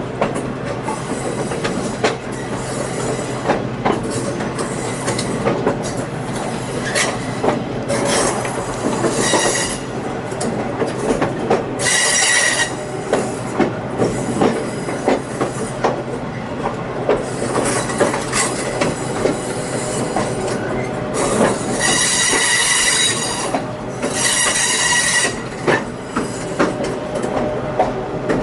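Passenger train rolling along the rails with steady running noise and scattered clacks from the wheels. The wheel flanges squeal high-pitched several times, most strongly about twelve seconds in and twice near the end.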